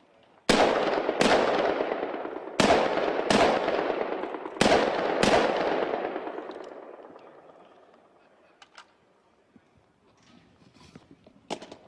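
G36 5.56 mm assault rifle fire: six single shots in three quick pairs, each pair about two seconds after the last, each shot trailing a long echo that dies away after the last pair. A short click follows near the end.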